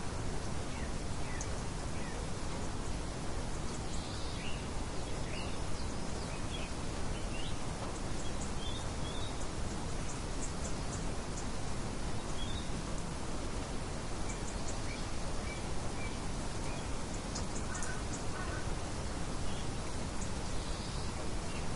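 Steady, even wind noise with faint, scattered bird chirps throughout.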